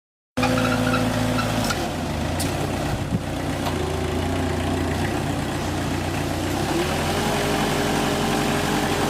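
An engine running steadily, cutting in suddenly, with a few light knocks in the first few seconds; its note steps up a little about seven seconds in.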